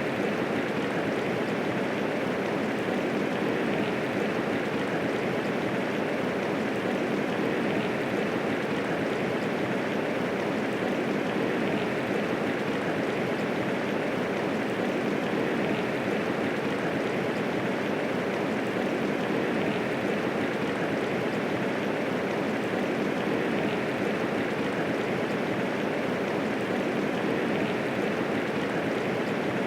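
Medium rainfall falling steadily, an even wash of noise with no thunder and no single drops standing out.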